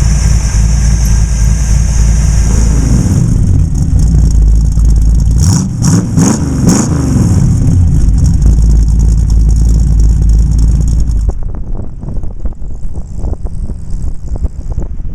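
Street rod's 360 V8 running on the road, the engine note rising and falling as it accelerates. A little past the middle the sound turns quieter and choppier.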